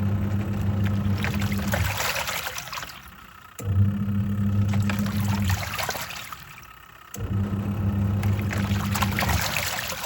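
Twin-tub washing machine's wash tub agitating work clothes in water: the pulsator motor hums for about two seconds, stops briefly while the water sloshes on, then starts again in the other direction, three times. The wash water churns and splashes throughout.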